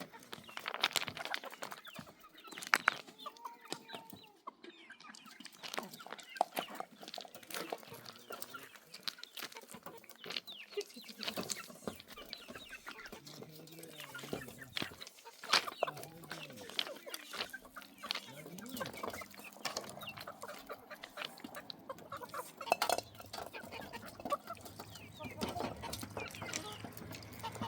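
Chickens clucking on and off, mixed with many short sharp clicks and knocks.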